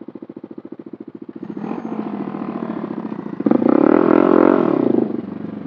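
Motorcycle engine idling with an even putter, then revving and accelerating from about a second and a half in, loudest for a second and a half before easing off near the end.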